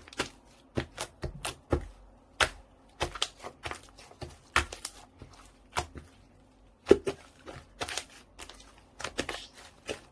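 Slime being squished and pressed by hand, making irregular sharp clicks and pops, a few each second, with a louder pop about seven seconds in.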